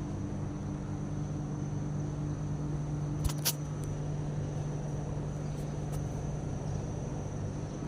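KDK K15V0 ceiling fan running: a steady motor hum with the whoosh of moving air and a faint high whine alongside. Two short clicks about three and a half seconds in.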